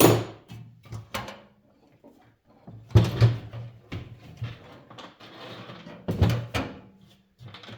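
Knocks and clatter of a vintage metal box fan's parts being handled during reassembly: a sharp knock at the start, another about a second in, and heavier double knocks around three and six seconds in, with some scraping between them.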